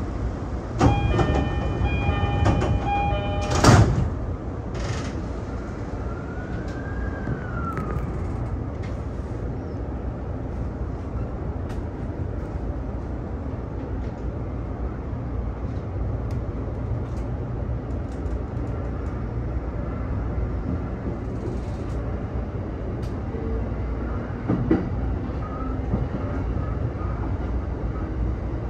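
E231-series commuter train leaving a station. A repeating electronic door-closing chime sounds for a couple of seconds, then the sliding doors shut with a sharp knock about four seconds in. The train then pulls away with a brief rising-then-falling tone and a steady low running rumble.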